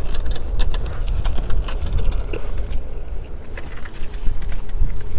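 Wind buffeting the microphone: a heavy, gusting low rumble, with scattered sharp clicks and crackles over it.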